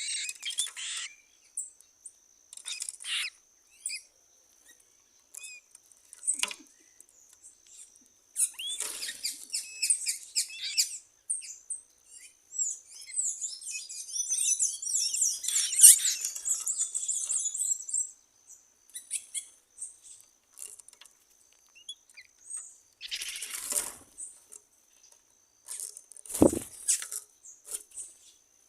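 Wild birds chirping and calling in short bursts, with a dense stretch of twittering in the middle, over a thin, steady high tone. A brief low thud comes near the end.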